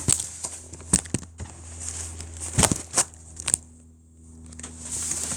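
Cardboard box being handled: about six sharp knocks and taps with light rustling in between, over a faint steady low hum.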